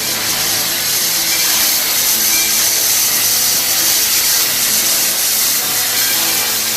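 Steam engine hissing steam in a loud, steady hiss, with a faint hum of steady tones beneath it.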